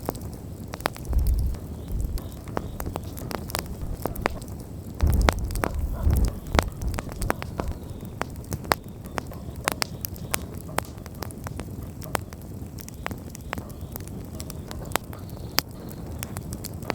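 Wood campfire burning, with a dense run of irregular sharp crackles and pops over a faint hiss. Two low rumbles come through, about a second in and again around five to six seconds.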